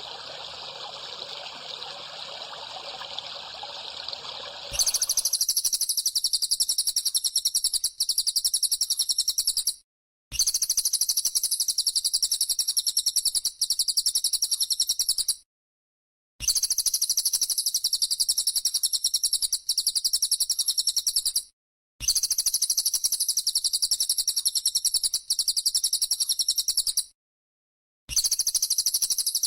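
About five seconds of a steady trickling-water sound, then a recorded small songbird's rapid, high-pitched chattering trill, played as a loop: blocks about five seconds long broken by short silent gaps.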